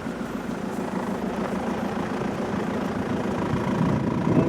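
Game-drive vehicle's engine idling steadily.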